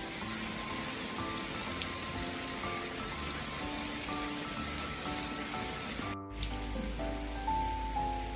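Steady rain falling on a garden pond and the plants around it, an even hiss of many small drops. Soft background music of slow, held notes plays over it. The sound drops out briefly about six seconds in.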